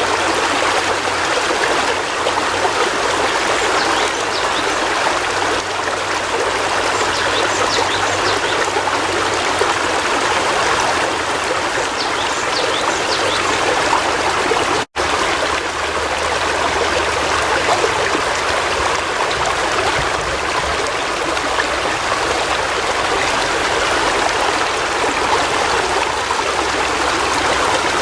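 River water flowing, a steady rushing and trickling, with a very short break to silence about halfway through.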